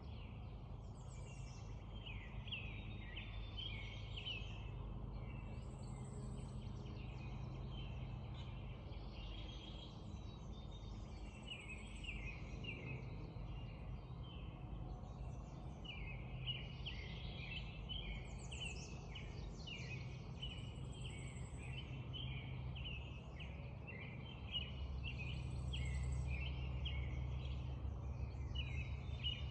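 Spring dawn chorus: many birds chirping and singing at once in a dense, continuous tangle of calls, with occasional thin high notes. Under it runs a steady low rumble that swells near the end.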